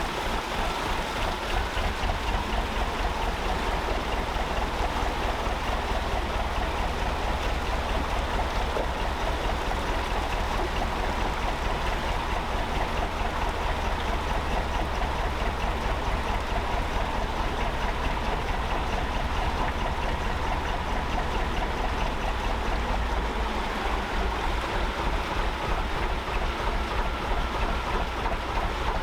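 Gardner 2LW two-cylinder diesel engine running at a steady, even beat, with a steady rush like flowing water over it.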